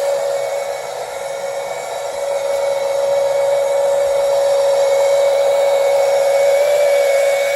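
Small 12-volt DC oil extraction pump motor running steadily with a constant whine as it draws out the old engine oil.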